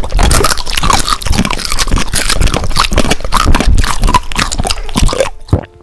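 Loud, close-miked chewing and crunching, a dense run of crackly bites and munching that stops shortly before the end. It is an ASMR eating sound effect standing in for a monster eating.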